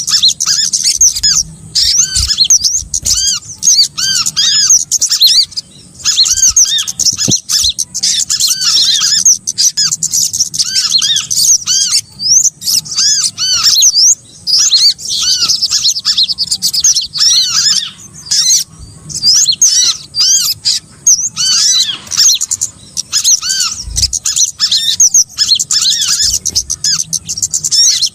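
Small songbirds calling in a dense, loud chatter of quick, high, arching chirps with brief pauses. It is a bird-lure recording mixing the sogok ontong with other small birds.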